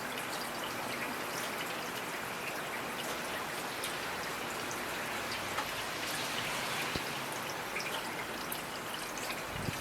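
Steady rainfall, an even hiss with scattered individual drops ticking on a surface. A soft low thump comes near the end.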